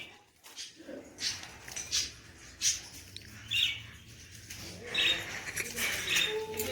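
Caged pet birds calling with short, high chirps, spaced out at first and then more of them overlapping near the end.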